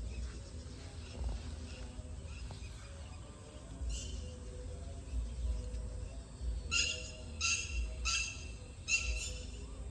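A bird calling: one short high note about four seconds in, then a quick run of about five sharp, evenly spaced calls near the end, over a low wind rumble.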